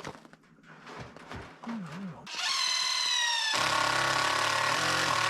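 Power drill running: a whine starts about two seconds in and sinks slightly in pitch, then turns louder and rougher for the last two seconds, as if bearing down under load.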